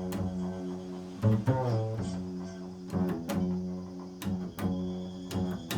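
Improvised solo music on a low-pitched string instrument: a few notes struck one after another, each ringing on and overlapping the last.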